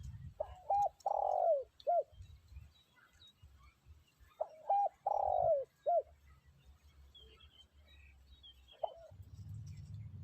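Spotted dove cooing its song twice, about four seconds apart, each phrase a few short coos around one longer coo that falls at its end. A single short coo follows near the end. It is a decoy call used to lure other spotted doves.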